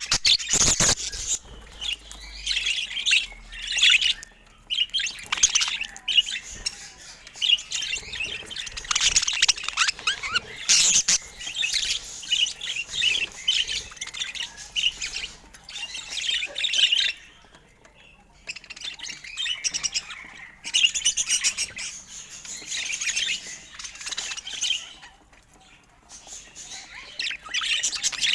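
Budgerigar chattering and warbling in quick, dense chirps, with brief pauses about two-thirds of the way through and again near the end.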